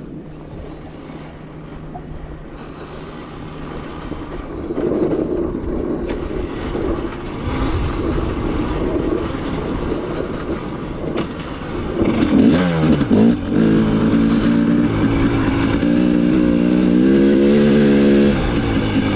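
Dirt bike engine running, quieter at first and louder from about four seconds in, with the revs dropping and rising again about twelve seconds in.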